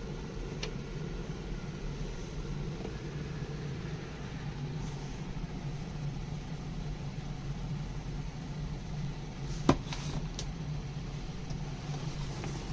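Electric kettle heating water toward the boil: a steady low rumble, with a sharp click about ten seconds in.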